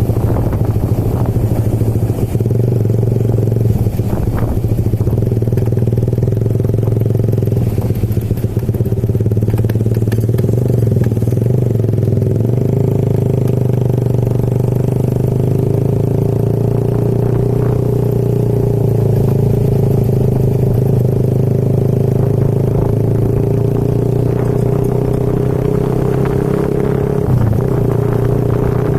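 Motorcycle engine running steadily while riding, with a droning hum and road noise underneath.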